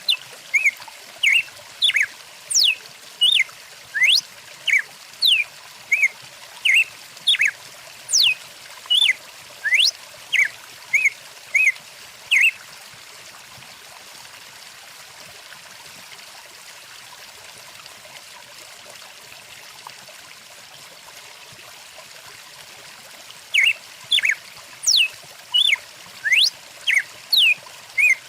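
Songbird calling in a rapid series of short chirps and whistles, about two a second, over the steady flow of a stream. The bird stops about twelve seconds in, leaving only the water, and starts again near the end.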